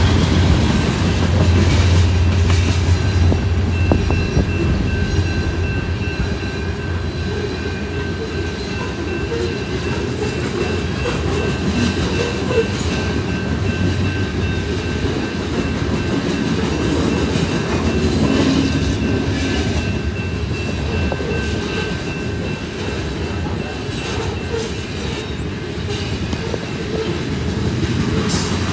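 BNSF freight train's covered hopper cars rolling past, wheels clacking over the rails, with a faint steady high whine. A deep engine rumble from the locomotives eases off over the first few seconds.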